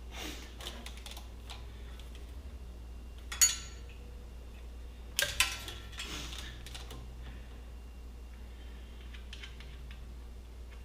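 Light metallic clicks and clinks of hand tools and engine parts being handled, scattered and irregular, with a louder cluster of clinks a little past the middle.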